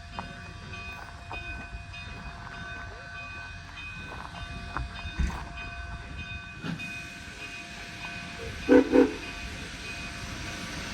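K-36 narrow-gauge steam locomotive standing in the yard with a steady hum and scattered knocks, then two short whistle blasts close together near the end. Two short blasts is the standard railroad signal that the train is about to move forward.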